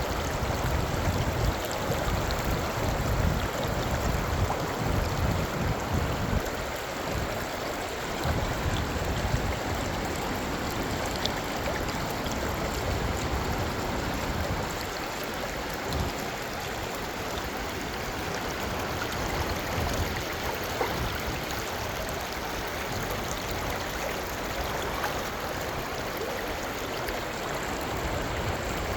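Clear mountain valley stream flowing over rocks: a steady rushing and gurgling of water, with an uneven low rumble in the first several seconds.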